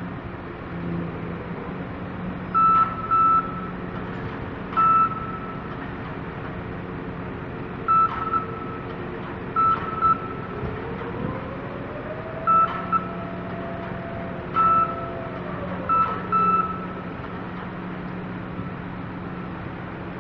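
Cargo-handling crane machinery running with a steady hum, sounding short high electronic warning beeps at irregular intervals, some in pairs. In the middle a motor whine rises in pitch, holds for a few seconds, then falls away, as a drive speeds up and slows down.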